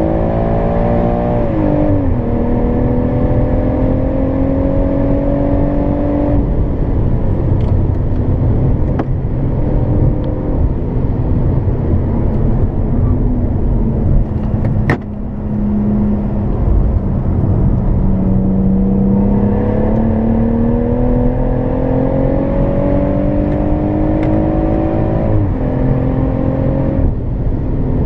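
Stage 1-tuned BMW M140i's turbocharged 3.0-litre straight-six pulling hard at full throttle, heard from inside the cabin. The revs climb, and the pitch drops sharply at an upshift about two seconds in. In the middle the car comes off the throttle and tyre and road noise take over, with one sharp click. It then pulls again through a long rising run to another upshift near the end.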